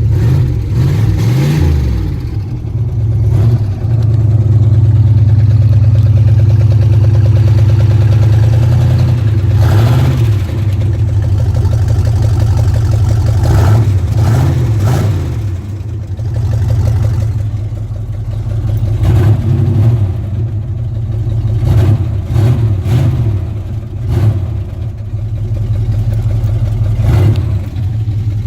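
A 1979 Cadillac Coupe de Ville's carbureted V8 running just after a cold start from several weeks' standing. It is blipped up several times, the revs rising and falling between stretches of steadier running.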